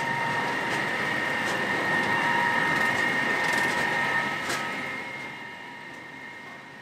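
Snowdon Mountain Railway rack train passing close by: a steady high whine from the locomotive's drive over a rumbling run, with a few sharp clicks. It grows fainter about two-thirds of the way through as the train moves away.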